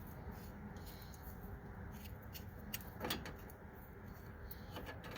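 Faint clicks and scrapes of channel-lock pliers and a wrench on a sway bar link's top nut, with one louder knock about three seconds in, over a steady low hum.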